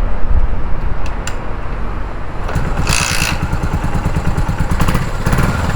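Yamaha SR400's single-cylinder engine starting up, then running with a low, even thumping through an aftermarket Beams muffler. About halfway through, the running thickens and there is a short louder burst.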